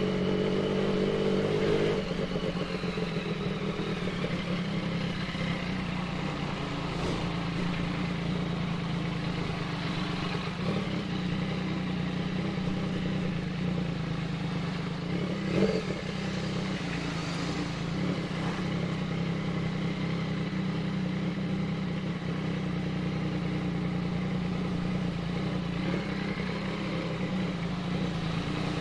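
Yamaha MT-09's inline three-cylinder engine running at low, steady revs, with a higher note that falls away about two seconds in and a brief louder spike about halfway through.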